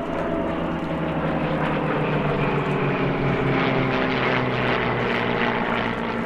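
Piston-engined Second World War propeller fighters flying past, a steady engine drone whose pitch slowly falls as they pass.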